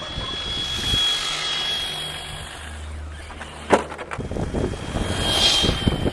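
Radio-controlled car motor whining steadily at a high pitch, then a sharp knock a little past halfway, followed by rattly crackling as the car runs over rough ground and the whine returns near the end.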